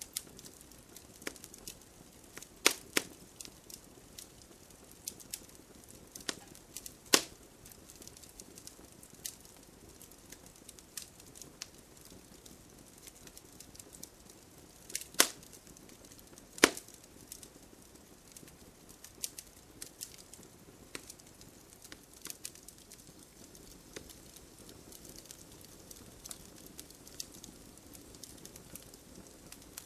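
Wood fire burning with irregular crackles and sharp pops over a low steady hiss, the loudest pops about 3, 7, 15 and 17 seconds in.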